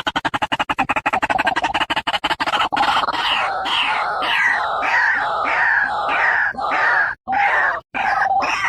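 White-breasted waterhen (ruak-ruak) calling loudly. A fast run of clicking pulses, about ten a second, gives way about three seconds in to harsh repeated notes, roughly two a second. These become longer calls separated by short gaps near the end.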